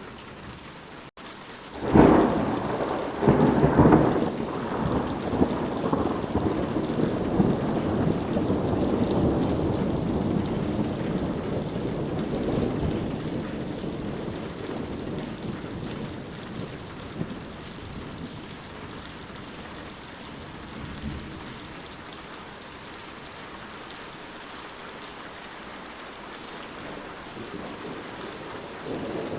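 Steady rainfall with a thunderclap about two seconds in and a second crack a moment later, followed by a long rolling rumble of thunder that slowly fades. Another rumble begins near the end.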